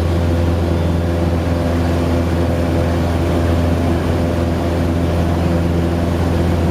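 Cessna 150M's Continental O-200A engine and propeller running at a steady drone.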